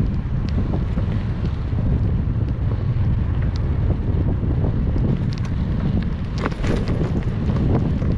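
Wind buffeting the microphone of a camera carried on a moving bicycle: a steady low rumble, with a few light ticks about six and a half seconds in.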